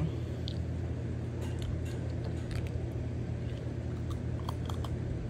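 Someone chewing a crunchy candied walnut, with scattered short crunches and clicks over a steady low hum.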